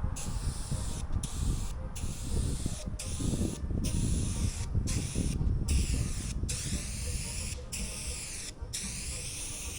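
Aerosol spray paint can with a wide 'turbo' nozzle spraying in repeated bursts of hiss, broken by short breaks about once a second, the hiss shifting in pitch as the can sweeps across the panel. A low rumble runs underneath.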